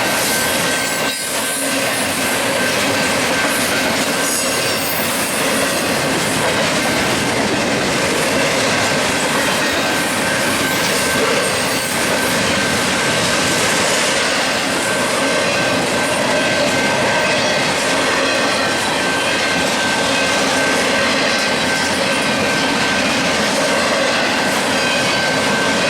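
Union Pacific intermodal freight train rolling past, its cars making a steady loud rumble and rattle of wheels on rail, with a thin, steady high-pitched wheel squeal throughout.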